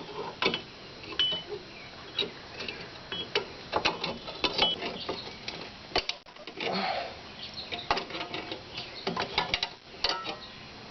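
Pliers working on the steel springs and shoe hardware of a rear drum brake: an irregular string of sharp metallic clicks and clinks, some ringing briefly.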